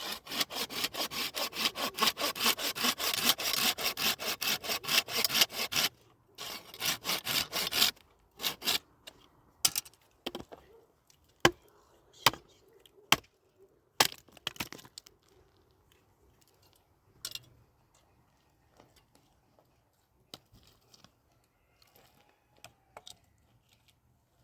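Hand saw cutting through wood in quick, even strokes for about six seconds. A short second run of strokes follows a brief pause, then a few scattered knocks and clicks.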